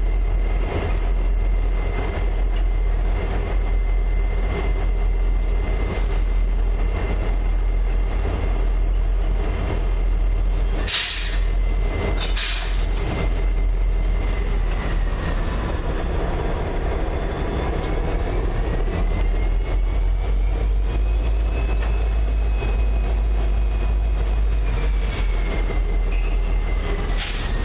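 Diesel-hauled freight train running with a heavy steady rumble and a thin high wheel squeal that wavers in pitch through the second half. Two short hissing bursts come near the middle.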